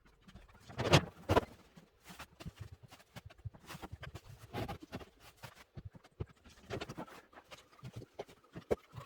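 Split oak firewood logs knocking and clattering as they are handled and stacked. Two loud knocks come about a second in, with lighter knocks and clicks scattered through the rest.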